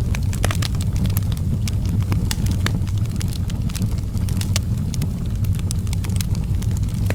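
Wood fire burning outdoors, with a steady low rumble of flames and many sharp, irregular crackles and pops.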